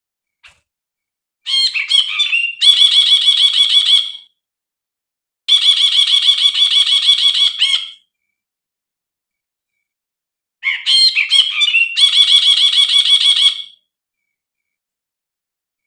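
Brinji (a bulbul) calling three times. Each call starts with a few varied notes and runs into a fast, rattling string of repeated notes lasting about two seconds, with silent gaps between the calls.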